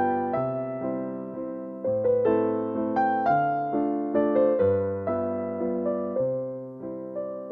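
Slow, gentle piano music: soft chords and a melody, each note struck and then dying away, with new chords coming about once a second.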